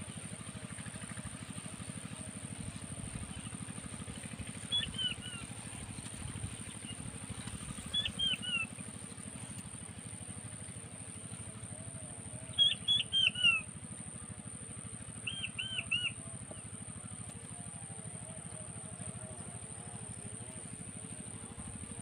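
Quail calls, four short groups of quick, high whistled notes that fall in pitch, the third group the loudest. The calls come from the puyuh batu (king quail) being lured to the trap. A steady high-pitched whine runs underneath.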